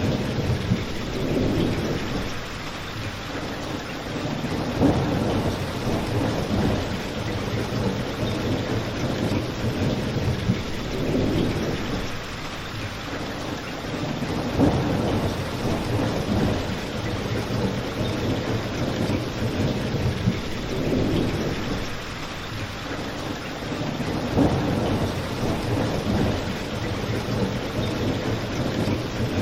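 Steady rain mixed with a crackling fireplace, under a low rumble that swells and fades. A sharper pop stands out about every ten seconds.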